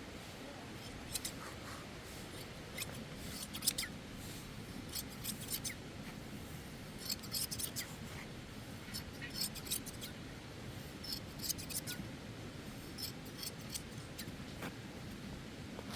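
Shears snipping through a sheep's fleece: short runs of quick, crisp snips with brief pauses between them.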